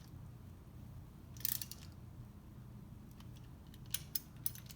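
Light metallic clicks and clatter of tools and parts being handled on a workbench: a short rattle about a second and a half in and a few sharp clicks near the end, over a steady low hum.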